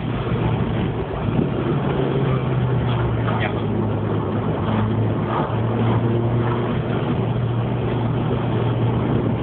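Proton Wira's 1.3-litre 4G13 inline-four engine running under steady throttle, heard from inside the cabin. Its pitch holds mostly level with a short dip about halfway, over a constant wash of road noise.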